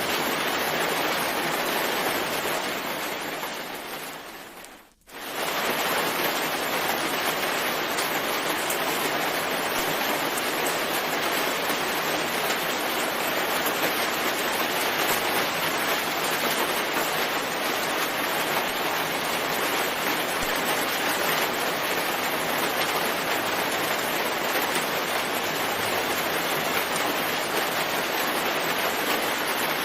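Steady rain, a continuous even hiss. About three seconds in it fades down to near silence, then comes straight back at full level a moment later.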